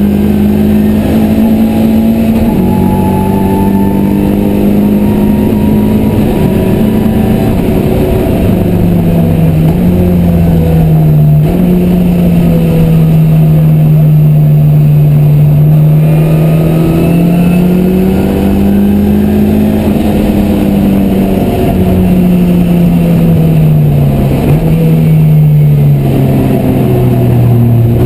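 Ford Zetec four-cylinder engine in a Mk1 Escort track car at full effort on track, heard on board. The revs climb and fall continuously through the lap, with a few abrupt drops in pitch at gear changes.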